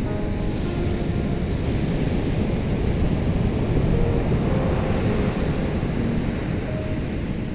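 Ocean surf breaking on a shore: a steady rush of water that swells to a peak about halfway through and eases off again. Faint, soft held notes of background music sound now and then over it.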